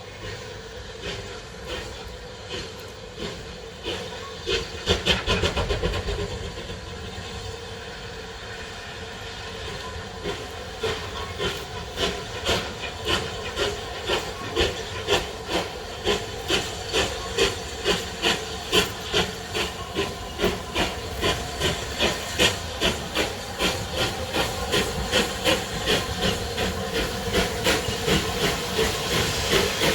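Three-cylinder steam locomotive (rebuilt Bulleid Merchant Navy Class 4-6-2) starting a train: a steady hiss of steam with a louder burst about five seconds in, then exhaust beats that grow louder and quicken from about one a second to about two as it gets away.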